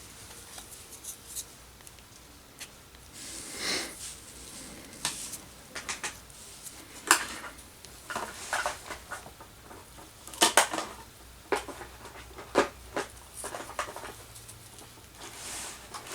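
Close handling of wooden craft sticks and cordage while they are tied into a small square frame: irregular light clicks, taps and short rustles, with a few sharper clicks.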